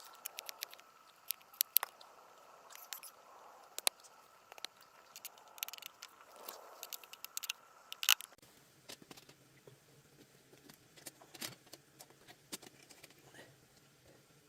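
Irregular sharp clicks and ticks, some a few a second, others spaced out, with a faint steady tone that stops abruptly about eight seconds in, where a low hum begins.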